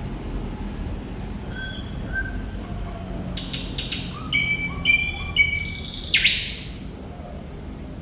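Thrush nightingale singing one phrase. Short whistled notes lead into a run of clicks, then quickly repeated notes, and the phrase ends in a harsh rasping burst about six seconds in. A steady low rumble runs beneath it.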